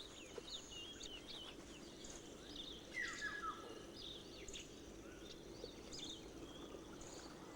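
Faint natural ambience of birds chirping: scattered short chirps throughout, with a brief run of falling calls about three seconds in, over a steady low background.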